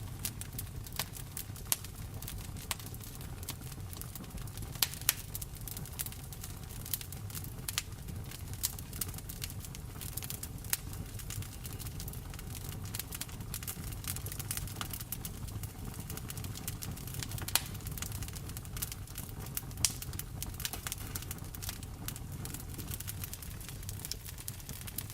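Wood fire crackling in a fireplace: irregular sharp pops and snaps, a few much louder, over a steady low rumble and the even hiss of rain falling.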